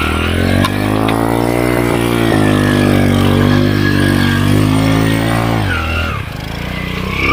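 Underbone motorcycle's small engine revving hard as it pushes through deep river water, its pitch climbing and holding high, then sagging about six seconds in before revving up again near the end.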